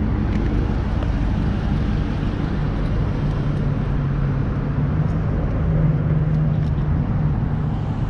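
Dodge Charger R/T's 5.7-litre Hemi V8 running with its mid-mufflers deleted, the exhaust giving a steady low drone as the car moves off at low speed.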